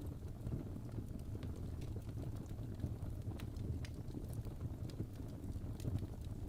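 Fireplace crackling: irregular sharp pops and snaps, a few a second, over a steady low rumble of the burning fire.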